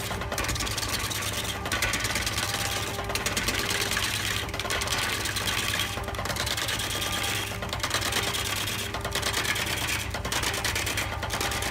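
Wood lathe running with a gouge cutting into a spinning log blank: a dense, rasping cut over the lathe's steady motor hum, the cutting noise breaking off briefly about every second and a half as the tool is worked along the blank.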